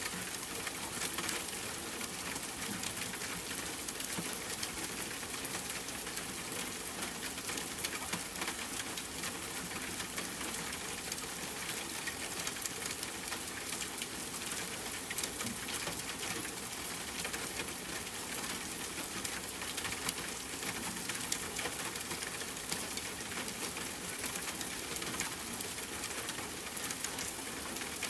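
Steady rain falling, an even hiss dotted with the ticks of individual drops striking a surface.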